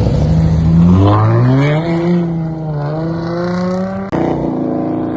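Performance car engine accelerating hard, its pitch climbing steadily and then holding high. It breaks off suddenly about four seconds in, and a higher engine note rises in its place.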